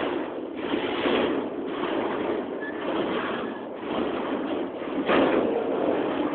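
Double-stack container freight train rolling past close by: steady rumble and clatter of steel wheels on rail that swells and eases about once a second, loudest about five seconds in.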